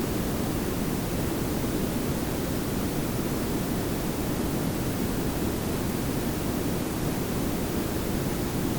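Layered pink and brown noise: a steady, smooth hiss over a deep low rumble, with no changes or events.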